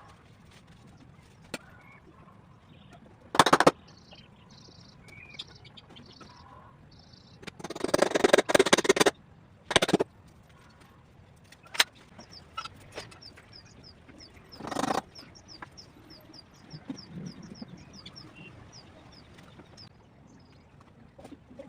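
Birds chirping: scattered short high calls, then a quick run of repeated high chirps through the second half. Several loud bursts of noise cut in, the longest lasting about a second and a half.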